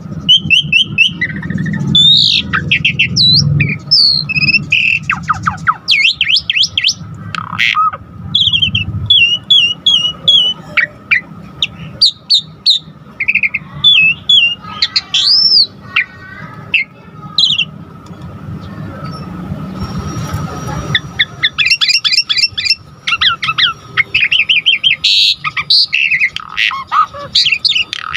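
Asian pied starling (jalak suren) singing loudly and continuously: a varied stream of quick rising and falling whistles, rapid trills and harsh squawks, packed with imitated phrases. A low hum sits under the song for the first several seconds.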